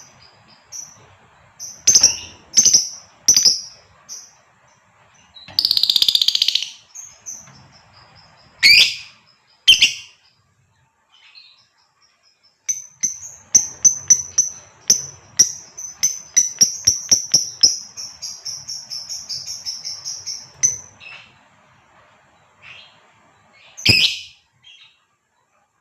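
Female lovebird calling: sharp, high-pitched chirps and a harsh screech, then about halfway through a long run of rapid chirps that runs together into a continuous chatter for some eight seconds. A few loud single calls stand out, one near the end.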